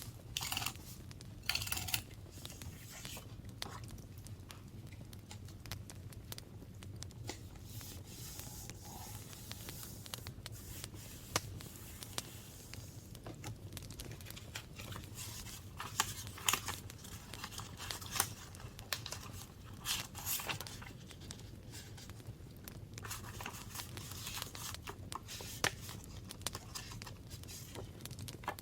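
Paper being torn and crinkled by hand in short, irregular strokes, with scattered light clicks and taps between them.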